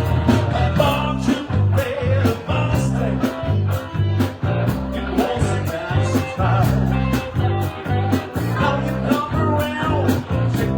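Live band playing a blues-rock number: guitar over a steady bass line and regular drum hits.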